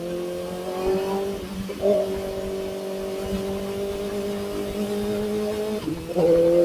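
Kawasaki ZX-4RR's 399 cc inline-four running through an SC Project exhaust, revving up, shifting up a gear about two seconds in and pulling steadily higher. Near the end the note jumps up sharply and gets louder.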